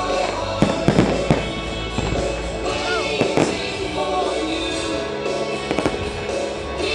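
Fireworks bursting over music, with a cluster of sharp bangs about a second in and single cracks later on.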